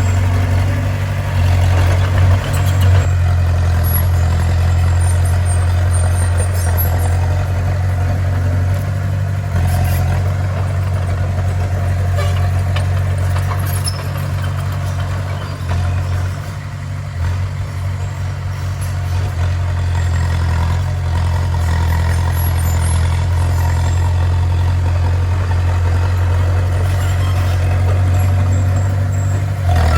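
Bulldozer's diesel engine running steadily with a deep hum, easing off slightly about halfway through before picking up again.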